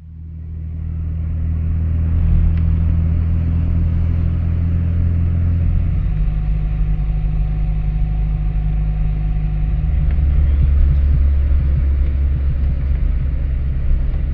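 Rover Mini's four-cylinder A-series engine driving along, a steady low drone that fades in over the first couple of seconds and changes pitch about six and ten seconds in.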